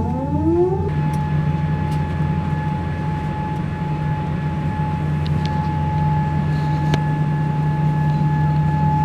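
Steady hum of a Boeing 787's systems in the cabin on the ground, with a constant high whine over it. A rising whine climbs and levels off about a second in, as a machine spools up.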